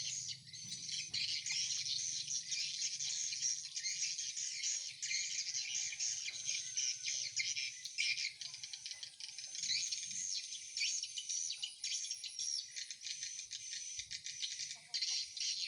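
Swiftlet calls: a dense, continuous high twittering made of many short chirps, the sound swiftlet farmers play and that the birds give around a swiftlet house.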